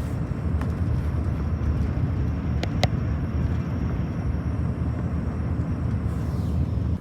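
A steady low rumble that cuts off suddenly at the end, with a couple of faint high ticks in the middle.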